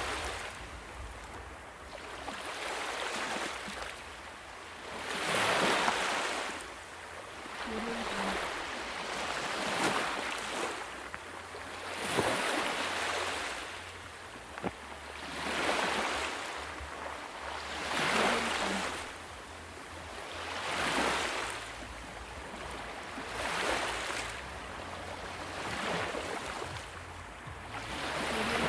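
Ocean waves washing in on the shore in regular swells, one surge every two to three seconds.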